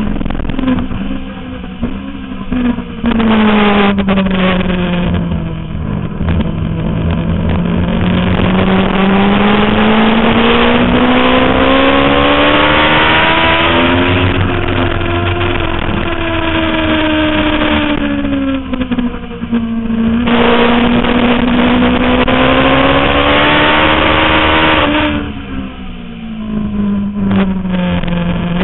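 Suzuki GSX-R750 K5 inline-four engine heard onboard at track speed, its pitch climbing and falling over several seconds at a time through the corners. The throttle snaps shut twice, about two-thirds of the way through and again near the end, and the revs drop briefly before picking up again.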